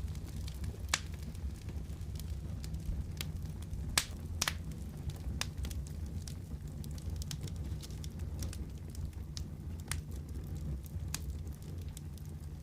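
Wood fire crackling and popping in a fireplace: a steady low rumble of flames with irregular sharp pops, the loudest about a second in and around four seconds in.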